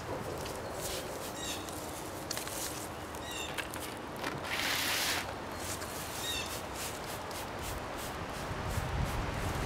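Small birds chirping in short calls several times over an outdoor background hum, with a brief rustle about halfway and a low rumble near the end.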